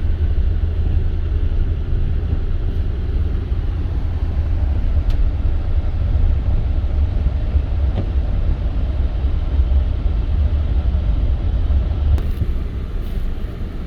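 Toyota Tundra pickup driving, a steady low rumble of engine and road noise heard from inside the cab.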